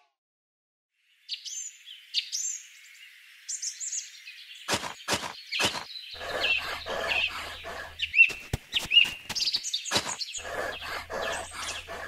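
Birds chirping from about a second in. From about five seconds in, a run of short strokes, up to about four a second, of a small hoe digging into gravelly soil.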